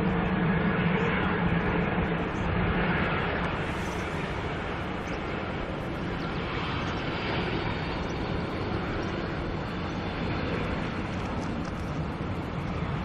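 Jet airliner engines, a steady roar that is loudest for the first couple of seconds and then eases off, with a faint high whine.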